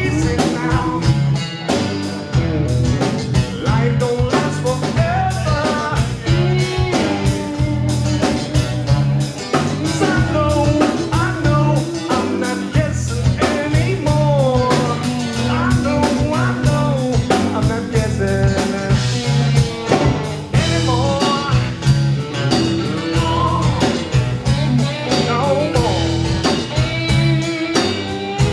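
Live blues-rock band playing, with electric guitar and a drum kit keeping a steady beat.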